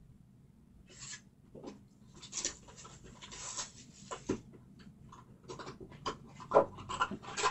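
Foil trading-card pack wrappers and cards rustling and scraping as they are handled, in short irregular strokes.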